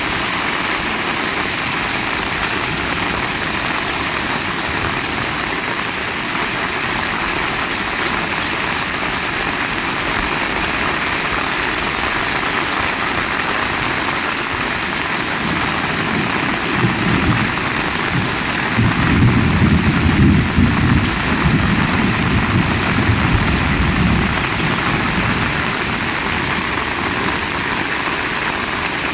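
Heavy rain falling steadily, a dense even hiss. About halfway through a deep low rumble swells up, peaks, and dies away after several seconds.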